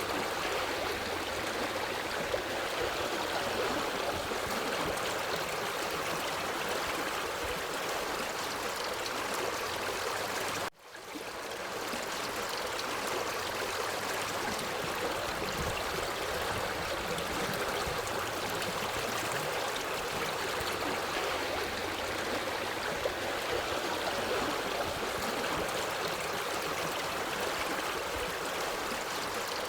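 Forest stream flowing over rocks: a steady, even rush of running water. About a third of the way in it briefly cuts out and comes back.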